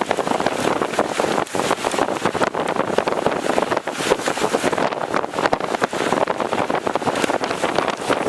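Strong storm wind blowing across the microphone: a continuous loud rush, broken by a dense crackle of short hits throughout.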